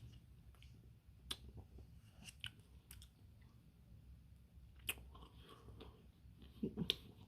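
Close-up eating sounds of a partly frozen Dairy Queen Blizzard being eaten: scattered soft clicks and mouth smacks, with a short low sound near the end.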